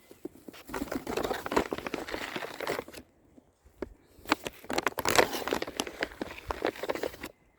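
Bag of sunflower seeds crinkling and rustling as it is handled, in two bouts of a few seconds each.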